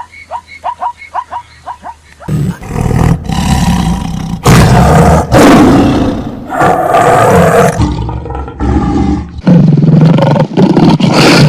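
A big cat roaring: a series of loud, rough roars with short gaps between them. They come in after about two seconds of short, high calls repeated several times a second.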